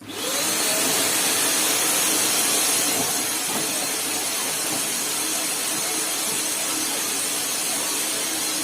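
Skyline 900-watt vacuum cleaner switched on: its motor whine rises within the first half-second, then it runs steadily with a loud airy hiss of suction.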